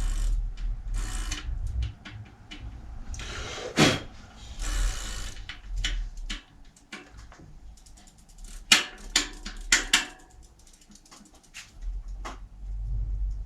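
Bicycle parts and tools being handled in a workshop: a string of irregular clicks and metallic knocks, with a few short swishes, over a low hum. The sharpest knocks come in a quick cluster about two-thirds of the way through.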